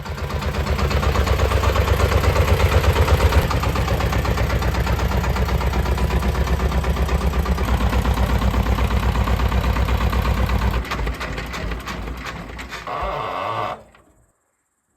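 An engine running with a steady pulsing beat, cutting off abruptly about fourteen seconds in.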